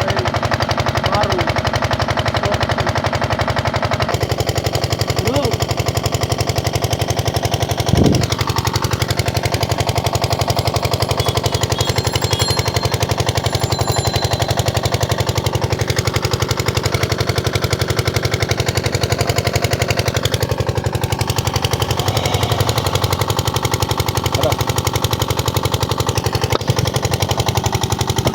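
Machinery running steadily with a fast, even rattle over a low hum, and a single sharp knock about eight seconds in.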